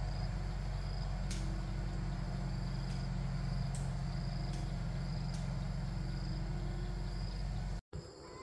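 Diesel tractor engine running steadily as a low rumble, with a high insect chirp repeating about once a second. The engine sound cuts off abruptly near the end.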